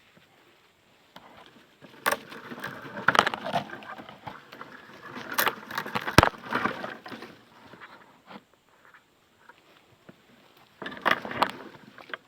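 Irregular rustling and scraping with sharp knocks and clicks, in two bursts, one of several seconds and a shorter one near the end: close handling noise of gear and branches.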